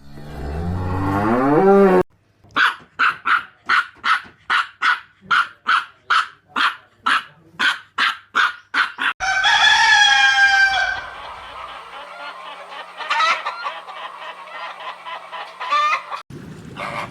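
Chicken clucking in an even series of about sixteen clucks, roughly two a second, then a rooster crowing once for about two seconds, followed by quieter scattered clucking. It opens with a short, low rising animal call, and another cut brings a different sound near the end.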